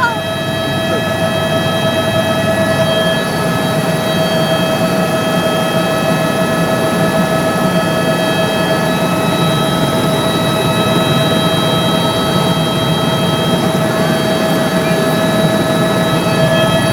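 Helicopter in flight: steady engine and rotor noise, a constant rush with a high, unchanging whine.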